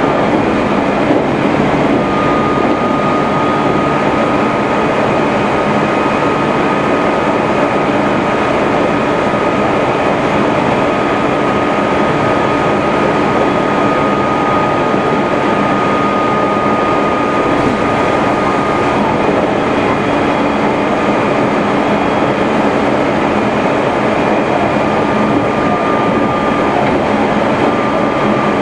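Meitetsu 3100 series electric train running at high speed: a steady, loud rumble of wheels on rail with a constant high whine over it.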